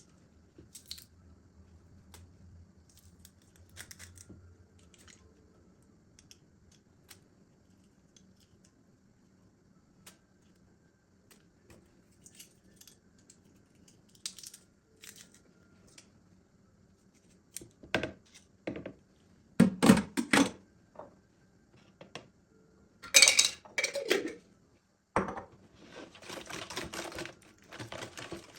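Kitchen food-preparation handling sounds: scattered light clicks and taps, then several loud knocks and clatters of utensils and dishes about two-thirds of the way through, and a stretch of rustling near the end.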